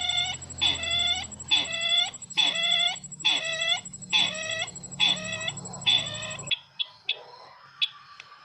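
Lure recording of the bird called sisintar, played back for bird trapping: one pitched call repeated about every three-quarters of a second, each dipping and then rising. A steady high whine and a low hum from the playback run under the calls and cut off with them about six and a half seconds in. After that only faint chirps and a few clicks remain.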